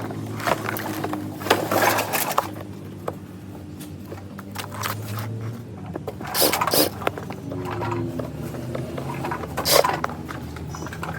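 Handling and prying apart the plastic and metal parts of a tower fan: irregular clatters and scrapes, with a few louder bursts around two seconds in, between six and seven seconds and near ten seconds, over a steady low hum.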